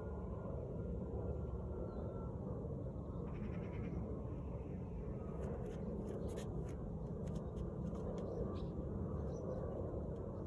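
Outdoor ambience: a steady low rumble, with a short animal call about three seconds in and a run of light clicks in the middle.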